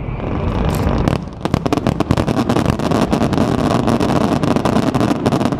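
Fireworks crackling in a rapid, dense run of sharp pops starting about a second in, over a steady low rumble of wind on the microphone.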